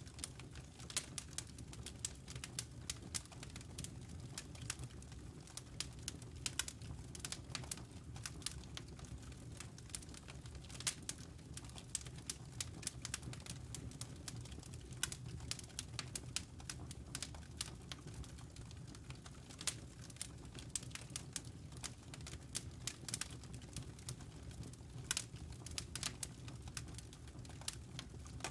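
Campfire burning: wood crackling and popping in quick, irregular snaps over a steady low rumble of the flames.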